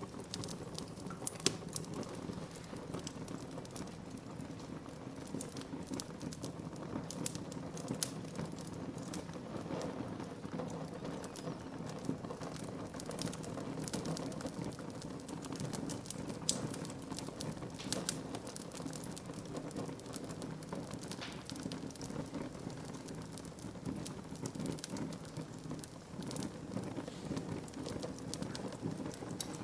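Wood fire burning in a fireplace: a steady low rush of flame with frequent irregular crackles and pops from the burning wood.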